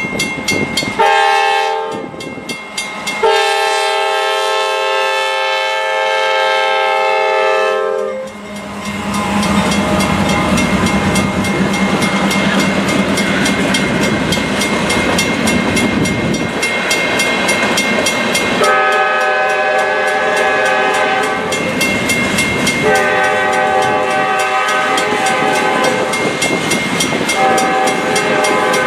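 Diesel locomotive air horn sounding a short blast and then a long one for the grade crossing. The locomotive's engine passes and covered hopper cars roll over the crossing with wheel clatter, while the horn sounds again in two blasts near the end. The crossing's mechanical bell rings steadily throughout.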